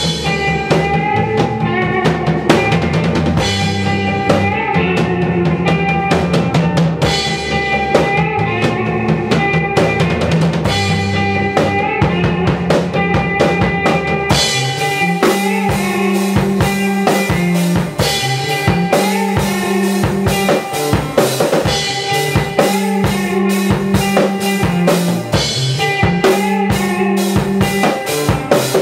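Rock music with a full drum kit, bass and guitar playing. About halfway through the arrangement changes: the deepest bass drops out and the drum hits stand out more sharply.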